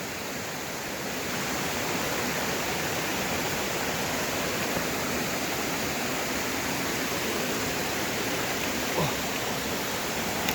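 A 40-foot waterfall rushing steadily, loud enough to drown out a voice, swelling slightly about a second in.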